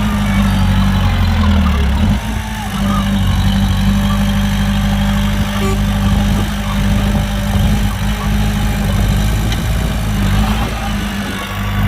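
Heavy diesel engine running steadily, with a slight change in its note about two seconds in.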